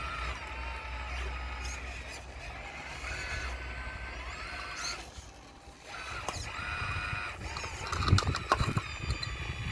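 RC model Caterpillar excavator's motors whining, the pitch stepping up and down as the machine works, with a lull about five seconds in. Near the end a run of knocks and clatter as stones are struck and moved.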